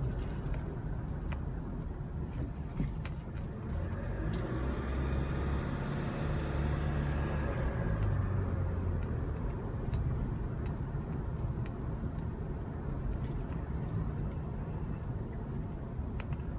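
Small truck's engine and road noise heard from inside the cab while driving. The engine note climbs and then falls away between about four and eight seconds in.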